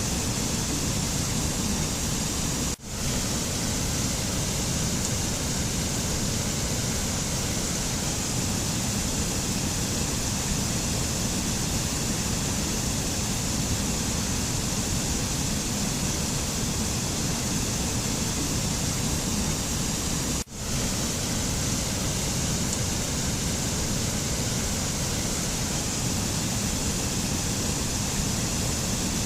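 Steady, even rushing noise of a mountain nature-sound track, like distant water or wind. It cuts out for an instant twice, about three seconds in and again about twenty seconds in.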